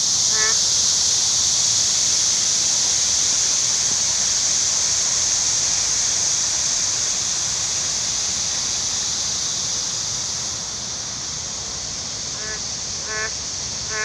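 A frog giving short, nasal-sounding honking calls: one about half a second in, then three more spaced under a second apart near the end. Under them runs a loud, steady high-pitched hiss.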